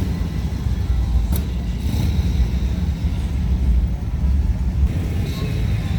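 Classic car engines running with a steady low rumble, with a brief sharp click about a second and a half in.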